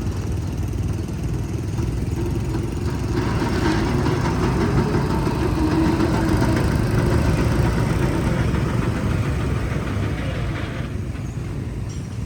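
Heavy diesel construction machinery running with a steady low rumble. It grows louder and rougher from about three seconds in, then eases back shortly before the end.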